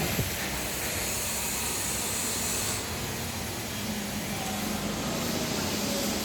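Steady hiss of steam from a steam boiler and its steam line, with a low steady hum coming in about four seconds in.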